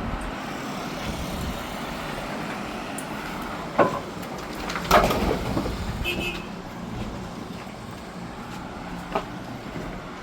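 Kia truck driving, a steady engine and road rumble with a couple of short knocks about four and five seconds in.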